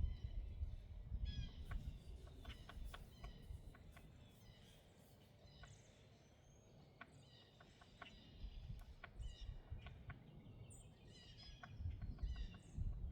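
Birds chirping repeatedly, short high calls scattered throughout, over a low rumble that swells near the start and again near the end.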